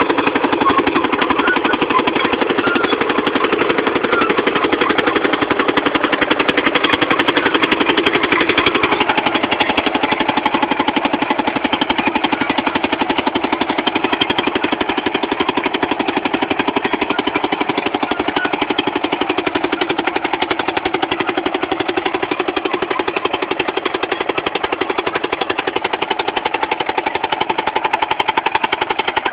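Fowler VF crawler tractor's single-cylinder two-stroke diesel engine running steadily with a fast, even beat while pulling a six-furrow plough.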